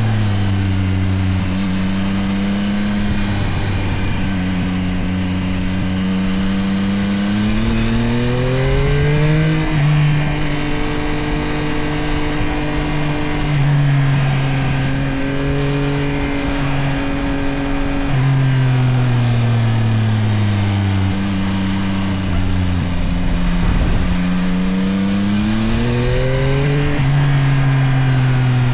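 Yamaha CP3 890 cc inline three-cylinder engine of a Tracer 9 GT+ motorcycle under way. Its note climbs about eight seconds in, holds, sinks again from about eighteen seconds, and climbs once more near the end, over a steady rush of wind and road noise.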